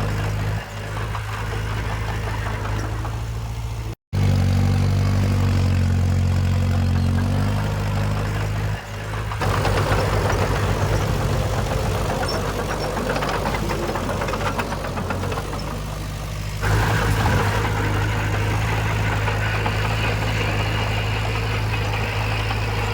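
Diesel engines of earthmoving machinery running steadily. There is a brief dropout about four seconds in, and the engine sound changes abruptly about nine and about seventeen seconds in.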